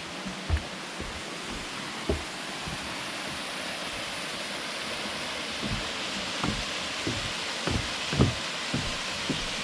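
Waterfall's steady rush of falling water, with scattered short low thumps through it.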